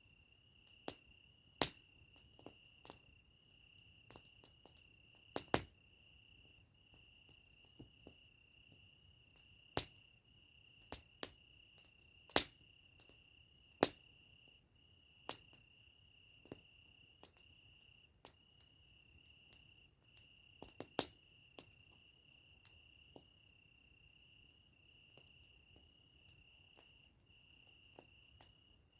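Campfire wood crackling: scattered, irregular sharp pops and snaps, some much louder than others, over a steady high-pitched insect trill.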